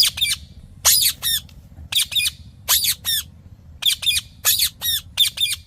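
Green parrot squawking: short, harsh, loud calls that drop in pitch, given in quick pairs about once a second.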